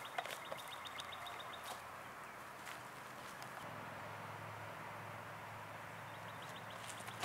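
Quiet outdoor ambience with a bird's rapid, even trill at the start and again near the end, and a faint low hum in the second half. Near the end a single sharp snap stands out as a disc golfer throws a drive from the tee pad.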